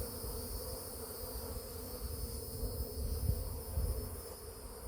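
Honey bee swarm humming steadily as the bees are let walk into a box, over a low, fluctuating rumble.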